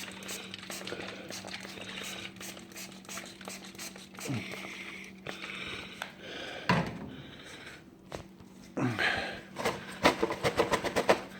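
Cloth rag rubbing and scraping on the metal door of a smoker, wiping off softened carbon and degreaser, with a few knocks against the door. A steady low hum runs underneath, and a quick run of sharp clicks comes near the end.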